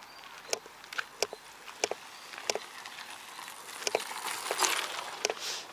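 Footsteps of a person walking up a slope, short sharp steps at a steady walking pace, with a brief burst of rustling noise about four seconds in.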